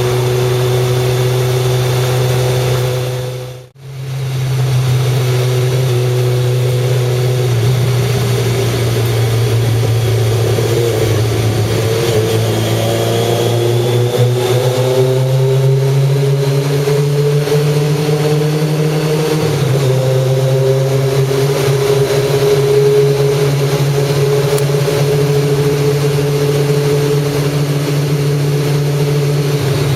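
Kawasaki ZZR1100's inline-four engine running under way, with wind rushing over the microphone. The sound cuts out for a moment early on. The engine note then climbs slowly as the bike speeds up, drops suddenly a little past halfway, and runs steadily again.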